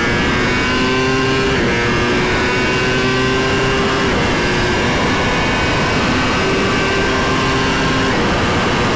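Superbike engine running at speed with heavy wind rush, its pitch holding level and stepping to new notes several times.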